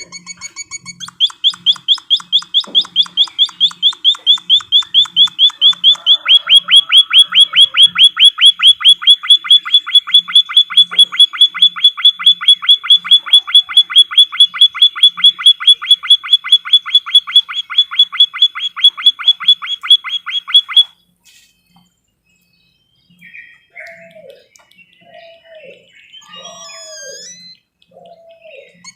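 A songbird singing a loud, fast trill of evenly repeated notes for about twenty seconds; it stops abruptly. After a short pause come scattered high chirps and a series of low, downward-sliding calls about once a second.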